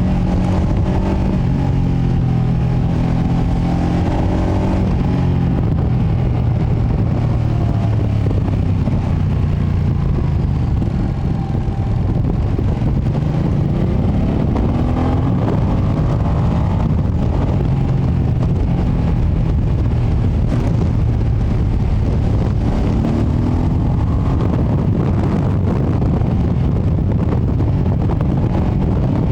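Ducati Panigale V2S V-twin engine through its stock exhaust under way on the road, the engine note dropping about ten seconds in, then climbing as it accelerates, and climbing again near the end.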